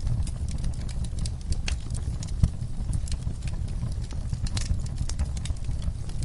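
Wood fire crackling in a fireplace: irregular snaps and pops over a low, steady rumble of flame, with one louder pop about two and a half seconds in.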